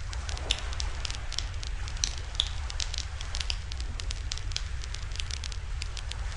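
Wood campfire crackling in a fire stand, with irregular sharp pops and snaps, a few louder than the rest, over a steady low rumble.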